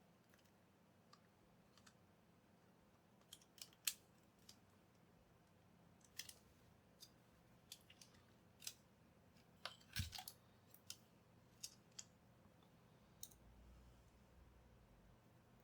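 Faint, irregular small clicks and taps of small parts or tools being handled at a workbench, about one a second after the first few seconds, with a slightly heavier knock about ten seconds in.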